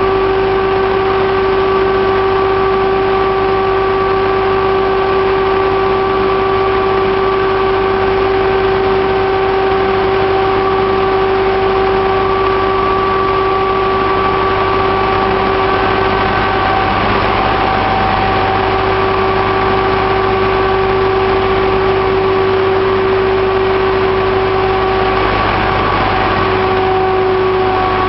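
HST (InterCity 125) power car's diesel engine running steadily, a deep rumble with a loud steady whine held over it, which wavers briefly just past halfway.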